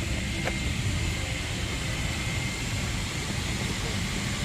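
Steady cabin noise of a jet airliner in flight: an even hiss over a low rumble from the engines and airflow, with a faint click about half a second in.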